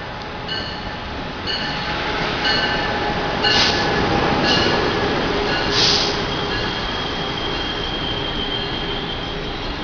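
Train running through the station: a chime-like tone repeats about once a second over the rumble of the train, with two louder hissing bursts in the middle. In the second half a steady high wheel squeal takes over.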